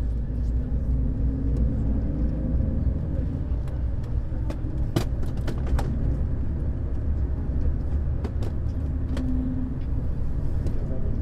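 Neoplan Skyliner N 1122/3C double-decker coach's diesel engine running with a steady low rumble. Scattered sharp clicks and rattles sound over it, most of them about five seconds in.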